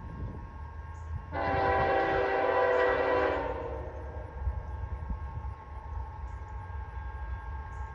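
Freight locomotive air horn sounding one blast of about two seconds, several tones at once, starting about a second in, over the steady low rumble of the train.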